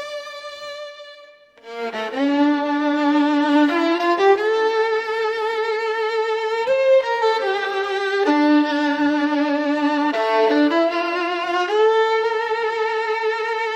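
Solo violin playing a slow melody with vibrato: a held note dies away, then after a short gap a new phrase of long, sustained notes begins.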